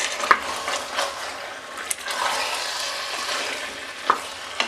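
Beef curry sizzling and frying in an open stainless steel pressure cooker while a spatula stirs it, scraping through the masala, with a few sharp knocks of the spatula against the pot.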